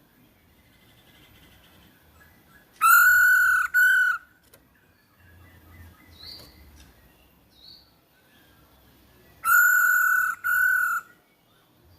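Female hwamei (Chinese melodious laughingthrush) calls played as a stimulus to set another bird singing. There are two loud double calls, each a pair of steady, harsh notes about a second long, some six seconds apart. Faint short chirps come between them.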